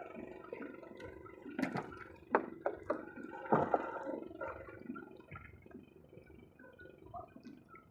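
Water splashing and dripping, with a few sharp knocks in the first half that thin out into small scattered drips.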